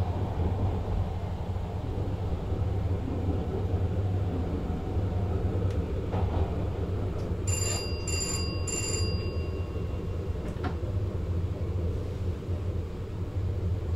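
Steady low rumble of a VIRM double-decker electric train running, heard from inside the driver's cab. A little past halfway, three short high electronic beeps sound in quick succession.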